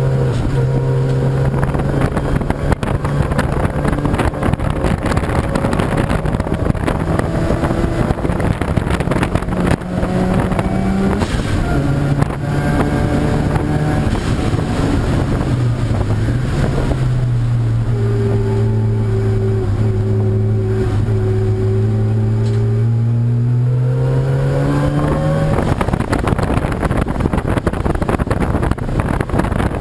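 Race car engine running at high revs, its pitch falling and rising again as the car slows and accelerates.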